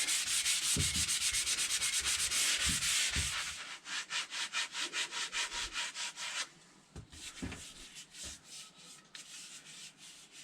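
Worn 80-grit sandpaper rubbed by hand along a spotted gum maul handle: quick, even back-and-forth sanding strokes. They are strong for the first three seconds or so, then lighter and more spaced out, and quieter still near the end.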